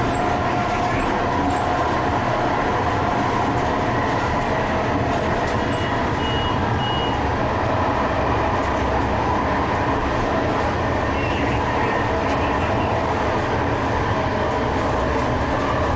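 Steady running noise inside a moving TRAX light-rail train car, an even rumble with a faint steady hum and a few brief high tones.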